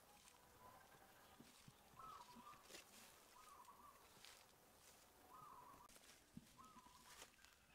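Near quiet, with a bird calling faintly in the background: four short, steady-pitched notes about one and a half seconds apart, and a few faint clicks.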